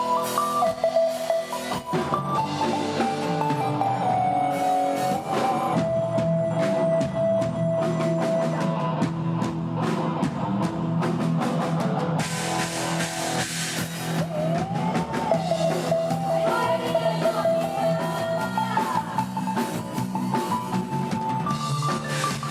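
Live band music with a drum-kit beat under sustained, held melody lines, including a few gliding notes in the middle.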